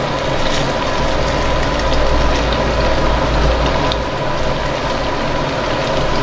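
Tofu cubes deep-frying in hot oil: a steady sizzle, with a few light clicks as the cubes are turned with wooden chopsticks. Under it runs a steady mechanical hum.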